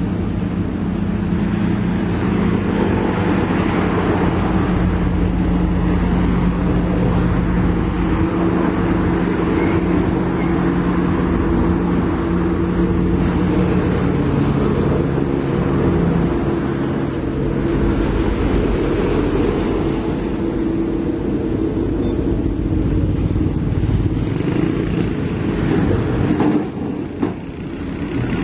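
Heavy diesel engine running steadily, its pitch shifting a little about halfway through, with a brief drop in level near the end.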